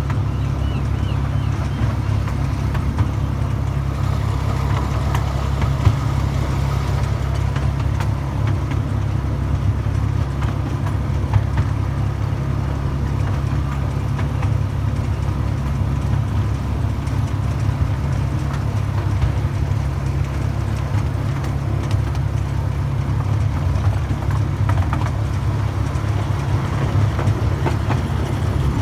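Miniature railway train running: a steady low rumble with a few sharp clicks.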